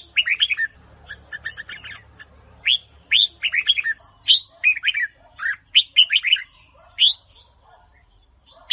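Red-whiskered bulbul (Huế chào mào) singing: quick phrases of short, falling whistled notes, with a brief pause near the end before another phrase starts.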